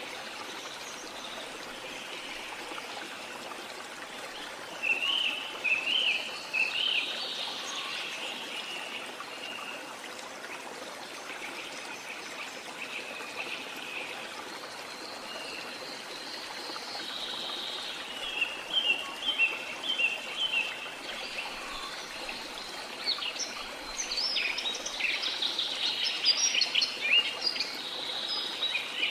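Waterfall running with a steady rush of water, and birds chirping over it: a burst of song about five seconds in, a run of quick repeated chirps around eighteen seconds, and busier calls near the end.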